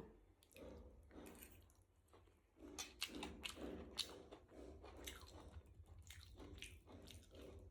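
A person chewing a mouthful of noodles, faint and irregular, a little more active from about two and a half seconds in.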